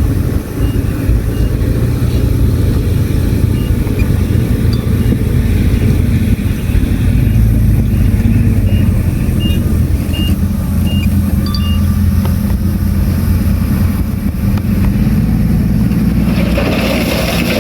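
Heavy diesel earthmoving machinery running under load, a steady deep engine rumble. Short faint high beeps come several times in the middle, and a rushing noise rises near the end.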